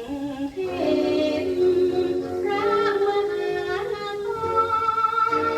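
Thai song playing from an old vinyl record: long held, slightly wavering melody notes from a female voice with a backing ensemble.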